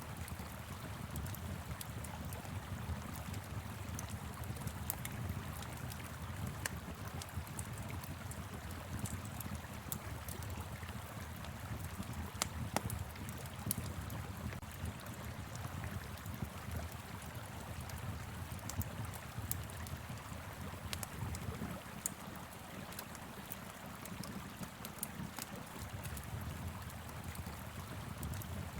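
Wood fire crackling with frequent sharp pops and snaps over the steady low rush of a flowing river.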